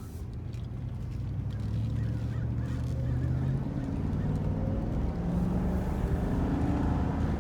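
Mercedes 500SL's M119 5.0-litre V8 accelerating hard. The engine note climbs in pitch and drops back at each upshift, getting louder as the car gathers speed.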